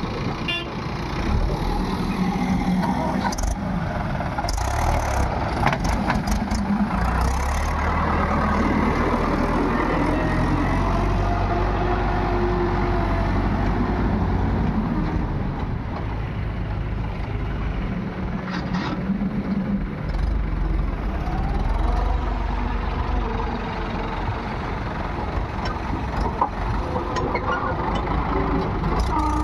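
Heavy diesel engines of a JCB backhoe loader and tractors running steadily under working load, their note swelling and easing over several seconds, with a few short metallic knocks.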